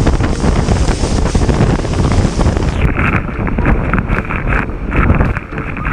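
Waterfall pounding close to the microphone, a loud steady rush of falling water with spray and wind buffeting the mic. About three seconds in, the sound turns abruptly duller, losing its hiss while the rumble goes on.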